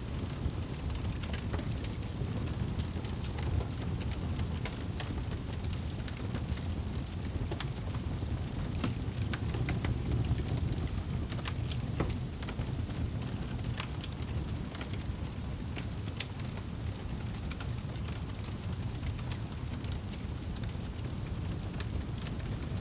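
Wood fire burning in a fireplace: a steady low rumble of flames with frequent sharp crackles and pops from the burning firewood.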